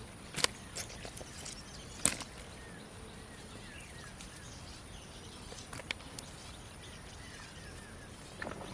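Outdoor ambience: a steady high thin whine with small chirping calls, broken by two sharp knocks, one about half a second in and one about two seconds in.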